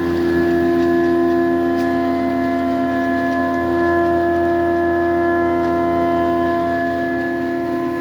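Industrial Transpower 20-inch planer running without load, a steady pitched hum from its motor and spinning cutterhead that holds level throughout.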